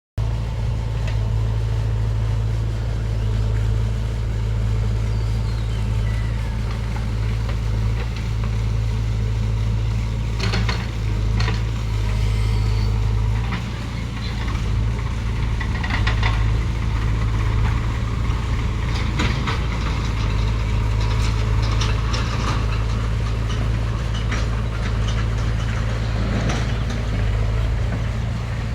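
A motor running steadily with a low, even hum, with a few short clicks and knocks over it.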